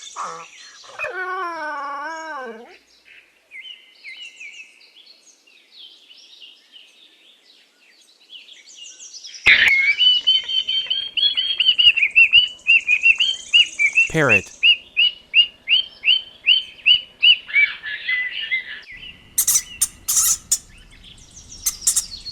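Parrot calling: a loud run of repeated high chirps, about two a second, with one deep downward-sliding call in the middle.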